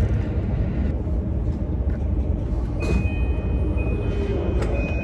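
Steady low rumble of a moving train heard from inside the passenger car. A thin, steady high tone joins about three seconds in, with a couple of light clicks.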